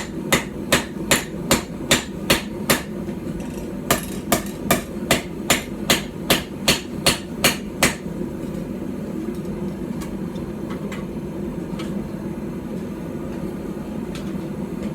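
A light hand-forged hammer, roughly 12 ounces, strikes steel on a small stump anvil while forging a knife blank, at about two and a half blows a second. There is a brief pause about three seconds in, and the hammering stops about eight seconds in, leaving a steady hum.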